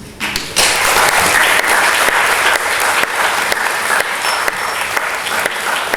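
Audience applause: many hands clapping, starting within the first half second, swelling quickly and going on steadily.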